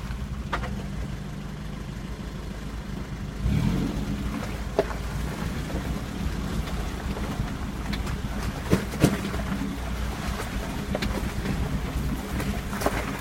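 Off-road vehicle engine running steadily, getting louder about three and a half seconds in, with scattered sharp knocks and clunks.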